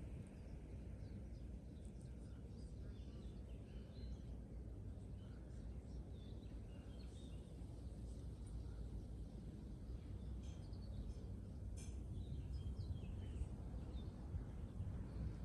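Birds chirping in scattered short, faint calls, busier about twelve seconds in, over a steady low outdoor rumble.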